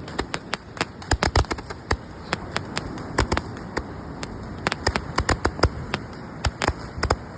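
Six 10-shot Roman candles firing together: a quick, irregular string of sharp pops as the shots go off, sometimes several in a clump.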